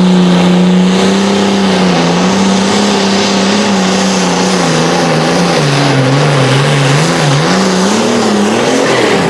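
Pulling tractor's engine running hard at high revs under heavy load. Its pitch holds steady, then sags and wavers for a few seconds before climbing again near the end.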